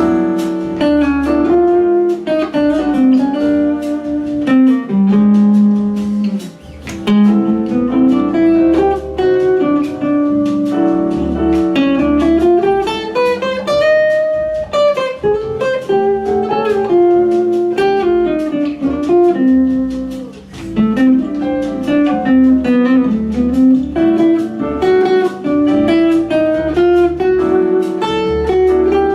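Guitar being improvised in a bluesy style: quick runs of plucked single notes over low bass notes, with a rising run about halfway through.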